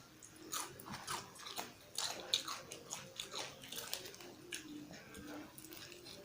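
Close-miked eating sounds: wet chewing and lip smacks, a rapid run of short clicks that is busiest in the first four seconds and thins out after.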